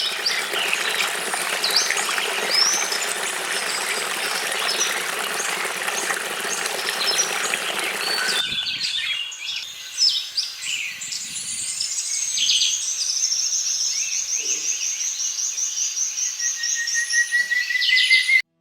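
Outdoor birdsong: several birds calling over a dense steady hiss, which cuts off abruptly about eight seconds in. After that the birdsong is clearer, with one bird giving a fast, high trill near the end.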